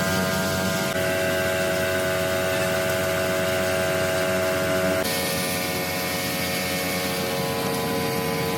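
A machine running steadily, with a whine of several steady tones over a hiss. About five seconds in, the whine changes abruptly to a slightly different pitch.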